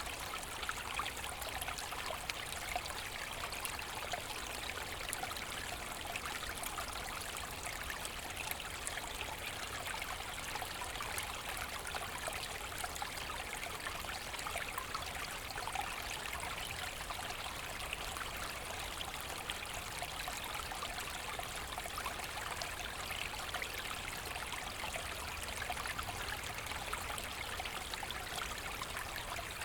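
Forest brook running and trickling steadily, an even rush of water with fine splashing and no pauses.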